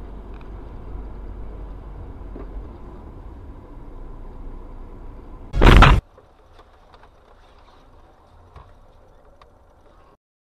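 Steady low road and engine rumble of a moving car, then a single sudden loud bang a little past halfway, followed by quieter noise with a few small clicks.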